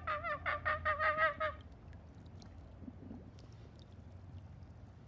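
A rapid, regular chattering call of short pitched notes, about six a second, like a monkey's chatter, stopping about a second and a half in; after that only faint background noise with a few small clicks.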